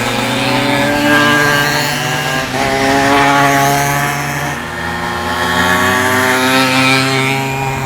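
Several pocket bikes' small two-stroke engines running hard together at high revs, their high buzzing pitches rising and falling and overlapping as the riders accelerate and ease off.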